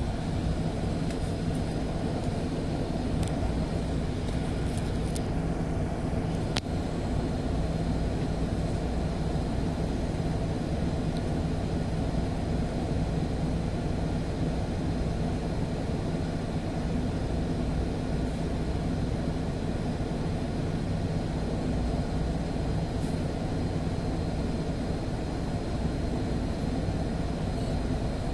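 City bus engine and road noise heard from inside the cabin while driving: a steady low drone, with one sharp click about six and a half seconds in.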